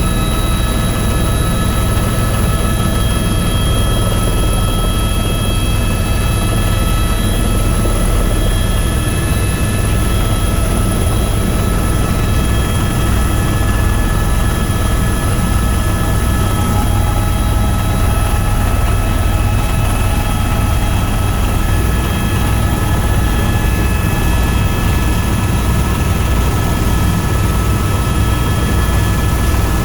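Tour helicopter in flight: steady, loud rotor and engine noise with a constant high whine.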